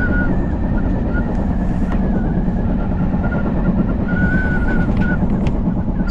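Odakyu Line commuter train running: a steady low rumble of wheels and motors, with a thin high squeal that comes and goes, loudest a little past four seconds in.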